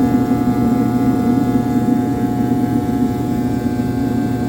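A vehicle engine running steadily, a constant hum with a few steady tones over it.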